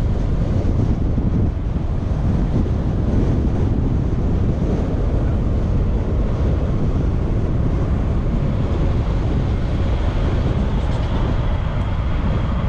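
Wind buffeting the microphone of a camera riding along on a moving road bike, a steady low rumble throughout. A faint, steady high tone comes in about two-thirds of the way through and fades near the end.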